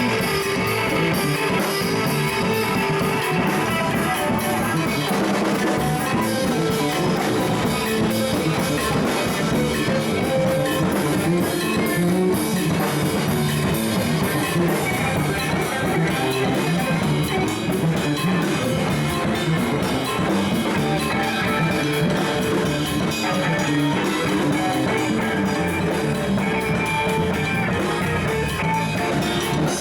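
Live rock band jamming, with electric guitar over a drum kit keeping a steady beat.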